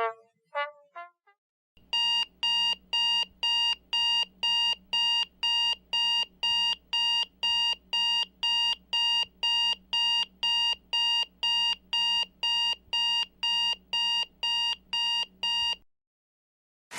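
Digital alarm clock beeping: a high electronic beep repeating about twice a second, stopping near the end.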